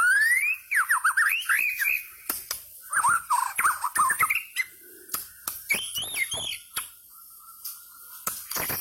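White-rumped shama singing: rapid phrases of rising and falling whistles mixed with sharp clicking notes. It sings three bursts, then goes quieter for a moment near the end.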